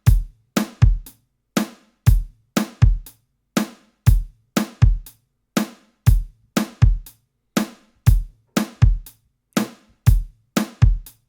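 A looping two-bar drum groove of sampled acoustic drum kit hits (kick, snare and hi-hats) playing back in a steady repeating beat, the hi-hats being EQed with their low end rolled off.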